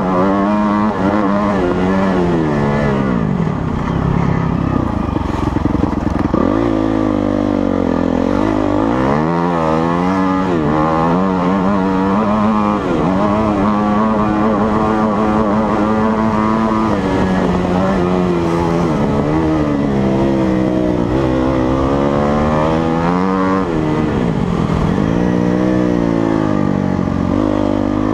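Motocross dirt bike engine revving hard and backing off over and over as the throttle opens and closes, its pitch climbing and falling, with two deep dips in pitch.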